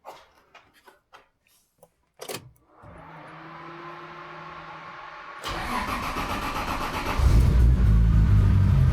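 Toyota Supra MK4 with a big-turbo 2JZ-GTE straight-six being started: a few small clicks, then a steady electric hum with a slowly rising tone. About five and a half seconds in the engine cranks and fires, then settles into a loud, deep running about seven seconds in.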